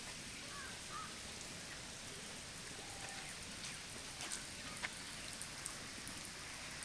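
Steady hiss of falling water, with a few faint ticks over it.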